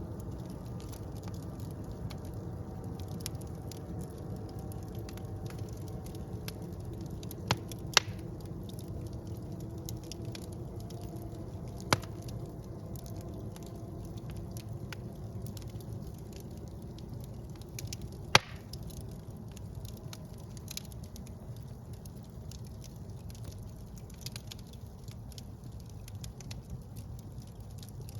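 Fire burning in a fireplace: a steady low rumble of flames with frequent small crackles and a few loud sharp pops, two about eight seconds in, one at twelve and one at eighteen.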